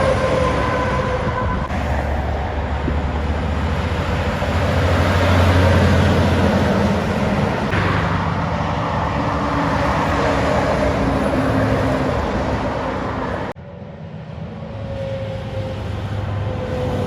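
Steady rumble of a moving vehicle, with faint drifting tones over it; it drops abruptly about thirteen seconds in, then builds back up.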